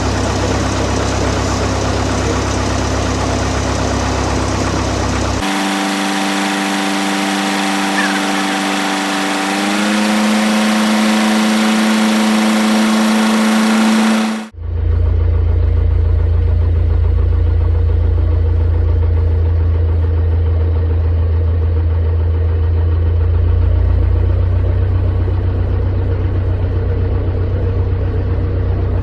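Piston engine and propeller of a small Cessna training aircraft running steadily, heard in spliced sections. In the middle section the engine note steps up in pitch about ten seconds in, as power is added. It then cuts abruptly to a deeper, duller rumble.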